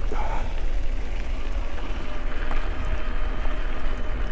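Wind buffeting the microphone of a moving mountain bike, a steady low rumble mixed with tyre noise on the road and a faint steady hum.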